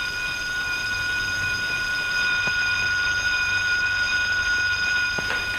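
Electric burglar alarm ringing steadily on one unbroken high tone.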